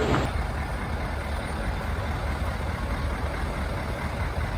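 A heavy vehicle's diesel engine running, a steady low rumble with road or ground noise.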